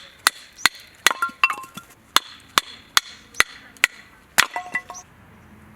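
Repeated blows of a hand tool in a steady rhythm, about two or three a second: sharp cracks, some with a brief metallic ring after them. They stop about five seconds in.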